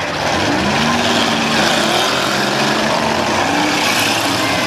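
Several demolition derby cars' engines running and revving together, their pitches rising and falling over a loud steady din.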